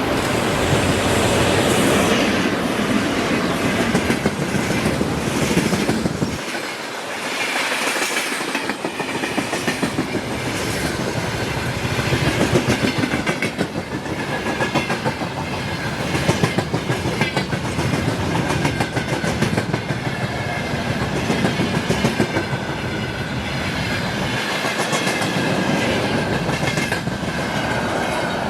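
Freight train wagons rolling past close by, wheels clattering rhythmically over rail joints in a steady run of clacks, with a faint high wheel whine in the later part.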